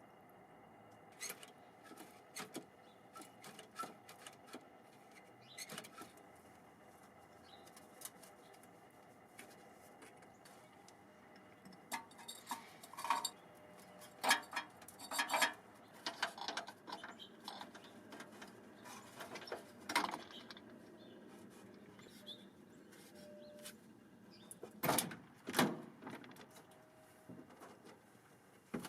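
Irregular light clicks, taps and knocks of hands and tools working around the engine bay of a 1978 Ford F150, growing busier about halfway through, with two louder knocks near the end.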